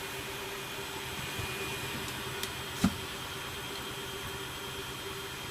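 Electrolux W455H commercial washing machine running with a steady hum, with a single sharp click about three seconds in.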